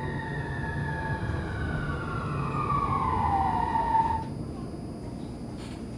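Electric tram's traction motors and inverter whining, several tones falling in pitch as the car slows, then cutting out about four seconds in, over a steady low running rumble.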